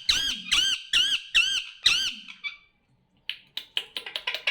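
Pet parrot squawking in a run of short, high, arched calls, about three a second for some two seconds. After a brief pause comes a faster run of short clipped sounds, about five or six a second.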